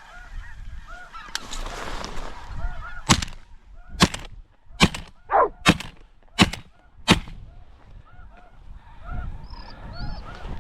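A flock of snow geese calling all through. About three seconds in, six shotgun shots come in quick succession over about four seconds.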